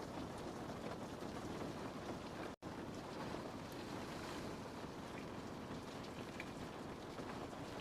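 Rain falling on a window pane: a steady hiss with a few faint ticks of single drops. The sound cuts out completely for a split second about two and a half seconds in.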